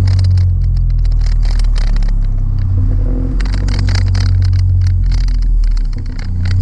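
Exhaust drone of a 2016 Honda Civic LX's K20C2 four-cylinder, fitted with a Flowmaster DBX pipe in place of the resonator, held at fairly steady low revs while driving. Scattered crackly noise runs over the deep drone.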